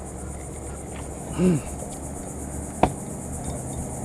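Insects chirring steadily with a high, finely pulsing buzz. A short vocal sound comes about a second and a half in, and a single sharp click near the end.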